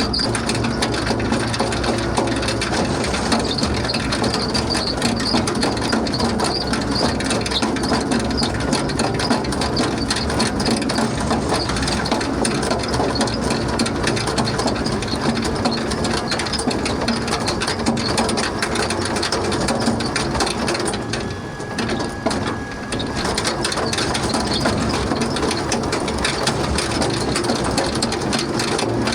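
Farm machinery running steadily with dense rattling and clattering, dropping off briefly about three quarters of the way through.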